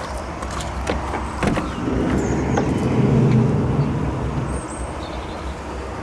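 A motor vehicle passing by: its engine noise swells and fades over a couple of seconds midway, over a steady low hum, with a few light clicks.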